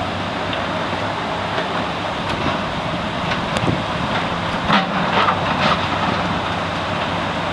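Steady rush of floodwater pouring through the broken-out bike path, under the low running hum of an excavator's diesel engine.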